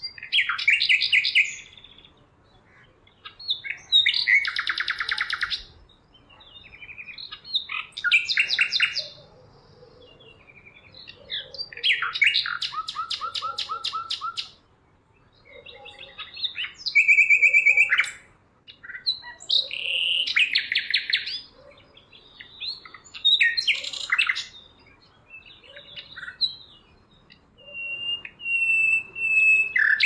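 A songbird singing loud, varied phrases of rapid trills and whistles, one phrase about every three seconds with short pauses between.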